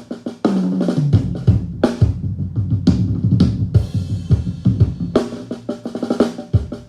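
Multitrack recording of a live drum kit played back: kick, snare and cymbal hits in a steady groove. About half a second in there is a run of ringing tom hits stepping down in pitch.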